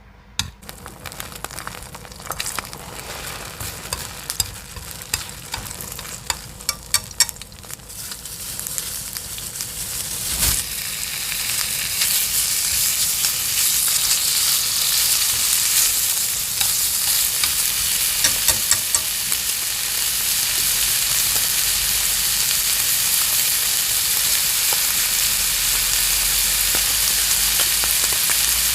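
Lettuce stir-frying in a pan. Sparse crackles and pops over the first ten seconds or so grow into a steady, loud sizzle that carries on.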